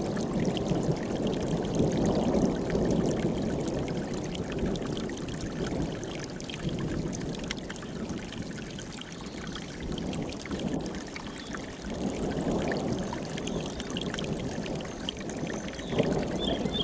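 Mountain stream rushing over rocks, a steady splashing flow that swells and eases a little.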